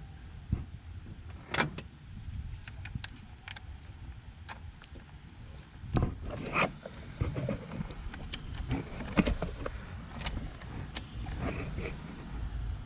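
Hand tools and metal parts clicking and knocking at irregular intervals, with several louder knocks, as an ignition coil is seated and its 7mm hold-down bolt is tightened.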